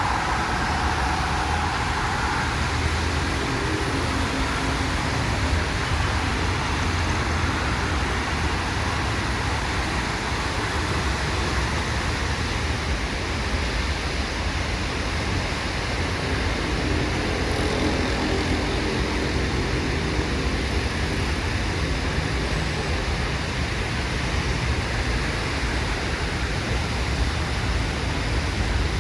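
Steady rain on a city street mixed with traffic noise: an even wash of rain and wet-road hiss over a low rumble of passing vehicles.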